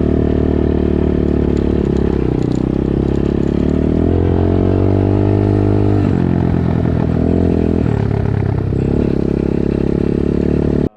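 Dirt bike engine running hard, its pitch climbing as it accelerates and dropping back at gear changes or throttle-offs about six seconds in and again near nine seconds; the sound cuts off suddenly near the end.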